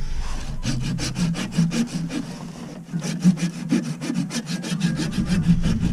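Hand saw cutting through an ABS plastic drain pipe in quick, rhythmic back-and-forth strokes, with a short pause a little under three seconds in. The cut drops out a section of drain line that is frozen up.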